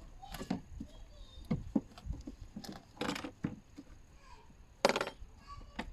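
Irregular plastic clicks, knocks and rustles of the air filter housing lid being lifted by hand, with one sharper knock near the end.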